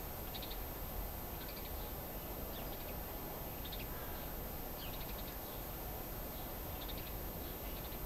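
A small bird chirping: a short high call of a few quick notes, repeated about once a second, over a steady low background rumble.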